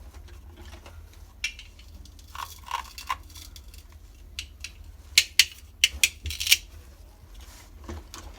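Toy kitchen set pieces being handled and set down: a scatter of light clicks and taps, with a quick run of sharper clicks about five to six and a half seconds in.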